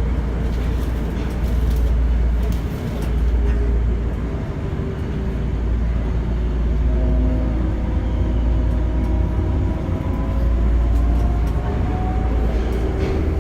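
Tokyo Metro 02 series subway train running: a steady low rumble of wheels on rail, with a faint traction-motor whine that slowly shifts in pitch in the second half.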